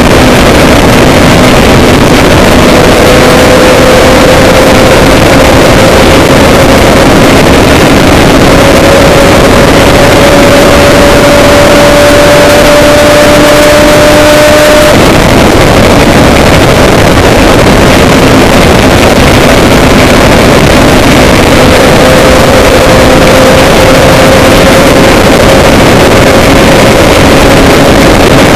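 A vehicle's engine running under loud, distorted noise, its pitch rising slowly, dropping away suddenly about halfway through, then rising again.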